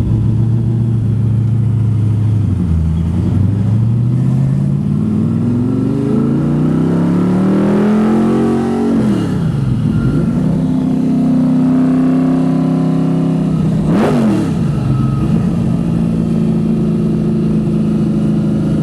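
Hot-rodded small-block Chevy V8 pulling through the gears of a four-speed manual. The revs climb steadily for several seconds and drop at an upshift about halfway through, then hold steady, with one quick sharp rev change near the end.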